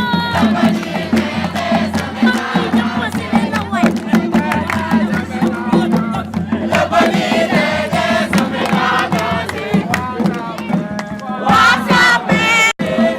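A crowd singing and chanting together over steady drumming, with a brief dropout near the end.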